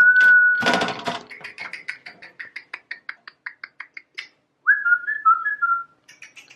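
A person whistling: a held note at the start and a short wavering phrase about five seconds in. Between them runs a quick series of light clicks, about six a second.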